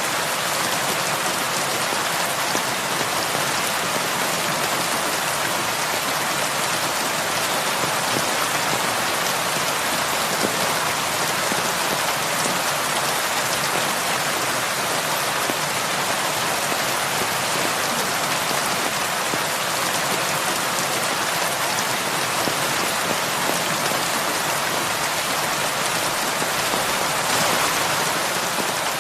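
Heavy rain falling steadily, a dense even hiss of drops on surfaces without let-up.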